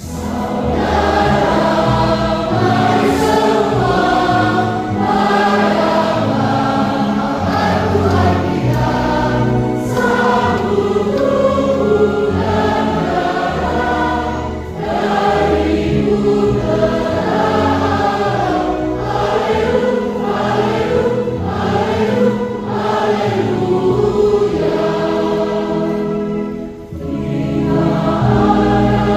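Children's choir singing a Catholic hymn of thanksgiving over instrumental accompaniment with a steady bass line, with two brief breaths between phrases, about halfway through and near the end.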